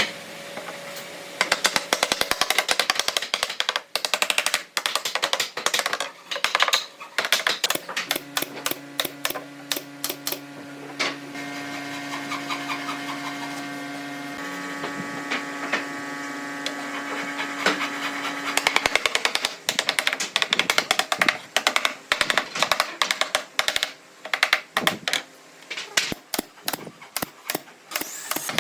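Rapid, repeated knocking and clicking of workshop tools on wood. A motor-driven tool runs steadily in the middle for about ten seconds.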